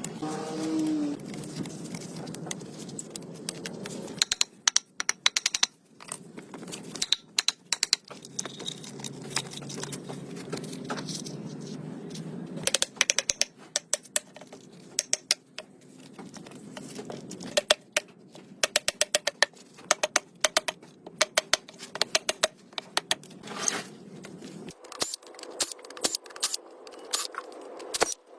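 Runs of rapid, sharp clicks and light clinks, with a low steady hum under the first part that stops near the end.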